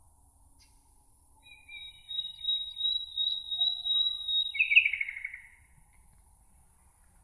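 A songbird singing one phrase of about four seconds: a long, high trilling note that ends in a lower, falling, buzzy flourish. A faint, steady, high hiss of meadow background runs underneath.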